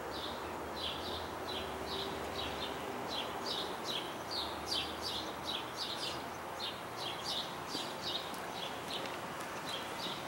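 Small birds chirping, short high notes repeated about three or four times a second, over steady outdoor background noise.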